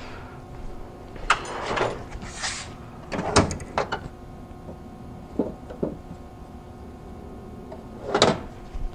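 Metal parts and hand tools handled on a workbench while a starter motor is taken apart: scattered clicks, clinks and short scrapes, a busy cluster in the first half, two small knocks in the middle and a louder clatter near the end.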